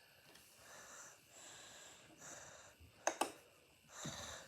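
A person breathing close to the microphone, soft breaths one after another, with two sharp clicks in quick succession about three seconds in.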